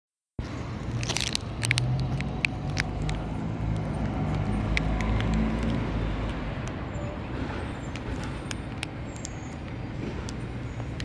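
Steady low outdoor rumble of an urban setting, like traffic, with a scatter of sharp clicks and crackles, thickest in the first three seconds.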